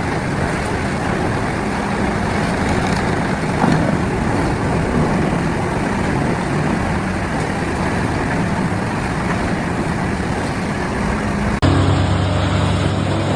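Heavy wood-processing machinery running under load: a dense, steady engine-and-grinding noise. About 11 s in it cuts suddenly to a different machine's steady engine drone.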